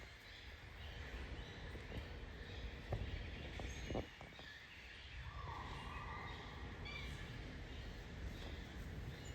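Birds chirping here and there in short calls over a steady outdoor background, with a few light knocks in the middle.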